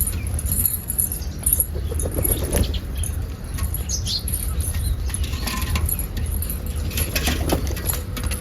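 Pigeon wings flapping, with scattered clicks and rattles, over a steady low rumble.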